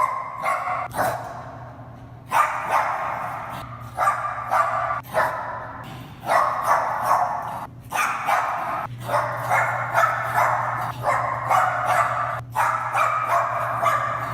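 Bichon Frise barking over and over in excited play, in rapid runs of barks broken by short pauses.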